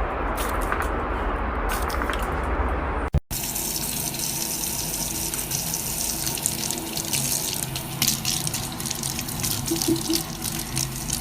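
Steady noise for about three seconds, then after a sudden cut, water running with many small crackling splashes.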